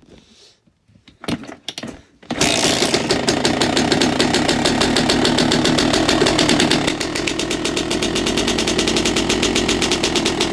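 A few knocks, then a cold two-stroke dirt bike engine catches about two seconds in and runs steadily with a rapid, even string of firing pulses. The sound drops a little about seven seconds in.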